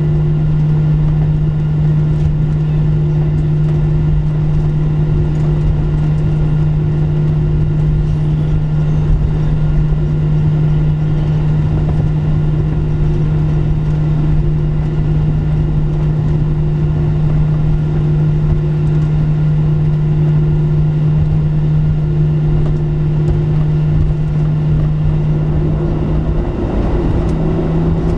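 Steady cabin hum of a Boeing 737-700 on the ground before takeoff: its CFM56 engines at idle with the air-conditioning, heard inside the cabin. A strong, steady low tone rides over the noise and shifts slightly near the end.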